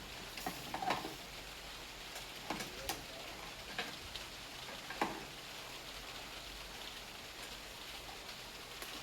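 Scattered light clicks and taps over a faint steady hiss, several in the first few seconds and the last about five seconds in, then only the hiss.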